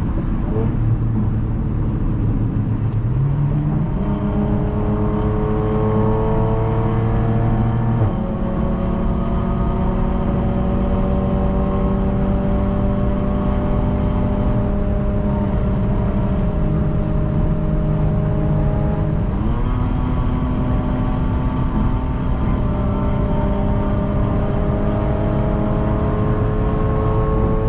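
Straight-piped Audi exhaust under load, the engine note climbing slowly as the car accelerates. Its pitch drops suddenly at a gear change about eight seconds in, then jumps back up about twenty seconds in before climbing again.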